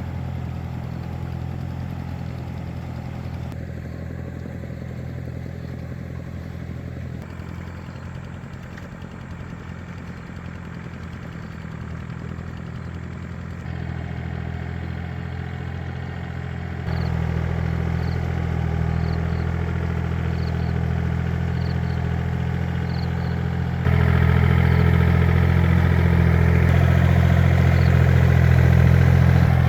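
Two-wheel tractor (agrimotor) engine running steadily with a low, even hum and some clatter, growing louder in sudden steps about halfway through and again near the end.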